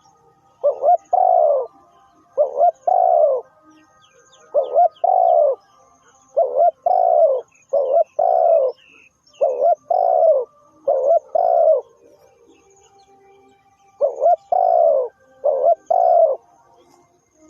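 Spotted dove cooing in repeated phrases. Each phrase is a short coo followed by a longer coo, and the phrases come about once every second and a half, with a longer pause about three quarters of the way through. Faint chirps of another bird are in the background.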